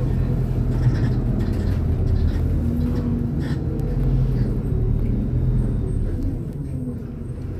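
MAZ-203 city bus heard from inside the passenger cabin while driving: steady engine and road rumble, easing off a little about six seconds in.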